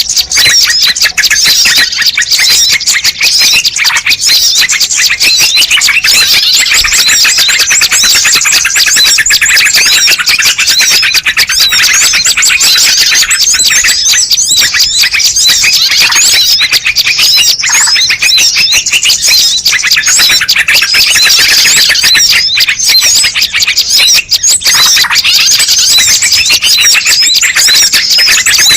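Loud, dense chorus of many small birds chirping and twittering over one another without a break: a bird-lure (pikat) recording meant to draw wild birds in.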